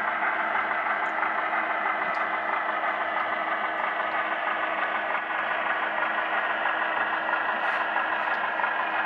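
HO scale model diesel locomotive with a DCC sound decoder, its engine sound running steadily from the onboard speaker while it pushes cars slowly toward a coupling, with a few faint ticks.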